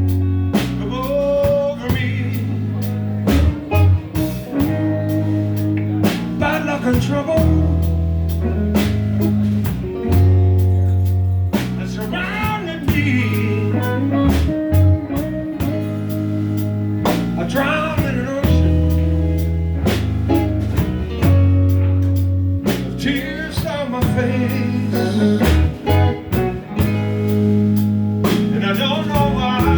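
Blues-flavoured band music with guitar, bass and drum kit playing a steady beat, a melodic lead line coming back every few seconds.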